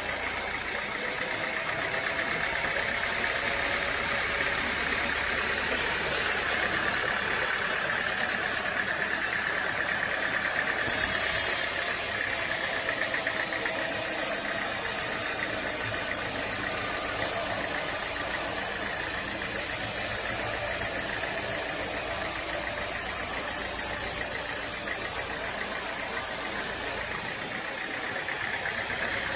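Machinery engine running steadily, with a steady high-pitched whine over it. The sound's character changes abruptly about eleven seconds in and again near the end.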